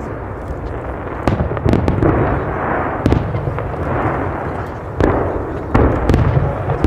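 Fireworks going off: a run of sharp bangs every second or so over a continuous rumble and crackle of bursting shells.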